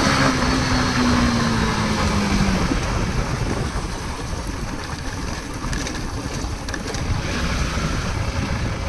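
An engine running, its pitch sliding slightly down and fading out about two and a half seconds in, followed by an even rough rumbling noise.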